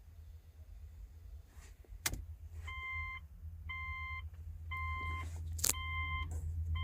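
Electronic beeping, one even beep about once a second, starting about three seconds in while keys are being registered to the immobiliser. Two sharp clicks sound in between, over a steady low hum.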